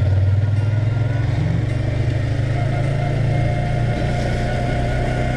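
Engine of a moving road vehicle running steadily at a constant speed, with a continuous rush of road and wind noise over it.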